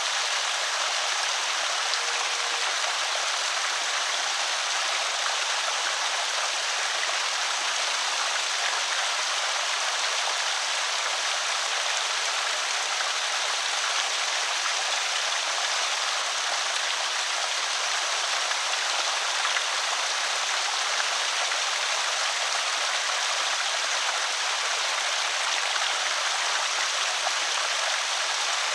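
Creek water pouring steadily over a small spillway, an even rushing splash without breaks.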